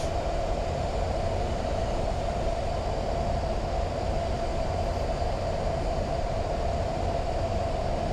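Boeing 737 MAX 8 flight deck noise on short final: a steady rush of airflow and engine noise with a constant mid-pitched hum, unbroken by any change.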